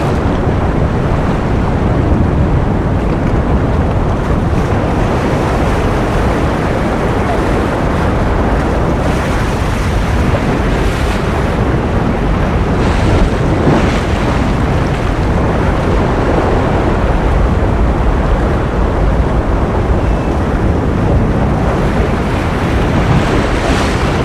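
Ocean surf as a steady, even rush of noise, deep and without distinct wave breaks, swelling slightly a few times.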